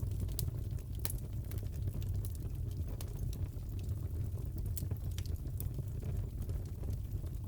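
Wood fire crackling in a fireplace: a steady low rumble with irregular sharp crackles and pops.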